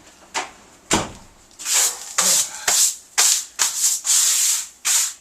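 A thump about a second in, then quick brushing or rubbing strokes, about two a second, as grinding dust is brushed off clothing.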